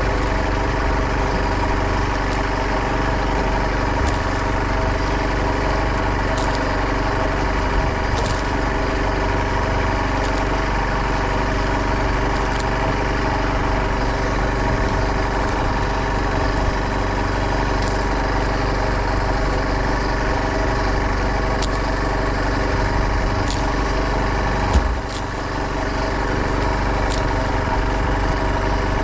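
Fishing boat's engine running steadily, with a single sharp knock about 25 seconds in.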